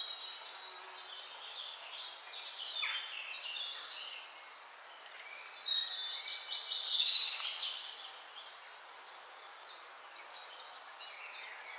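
Several birds chirping and singing in short whistled notes, with a loud burst of song at the start and another about six seconds in, over a faint steady hiss.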